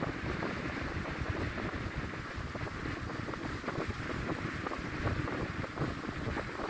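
Wind buffeting the microphone by the sea, a steady rushing rumble that gusts and flutters, with the sea's wash behind it.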